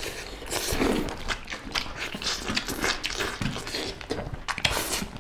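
Chewing and lip-smacking of people eating chicken legs and rice with their hands: a string of irregular short smacks and clicks.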